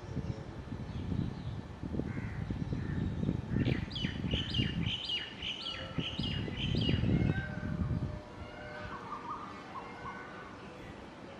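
Songbirds calling: a quick run of about eight sharp, falling notes in the middle, then softer scattered calls, over a low rumble that fades out about eight seconds in.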